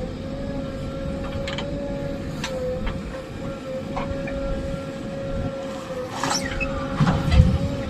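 Backhoe loader at work: a low engine rumble under a steady high whine, with scattered metallic clicks and knocks. A heavier low thud comes about seven seconds in.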